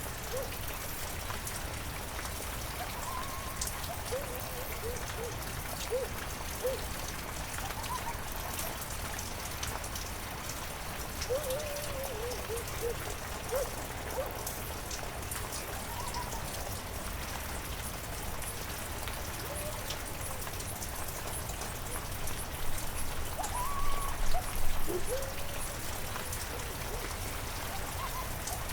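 Heavy rain falling steadily, an even hiss of drops. Short pitched calls that rise and fall come through the rain now and then, loudest in a cluster a little over three-quarters of the way through.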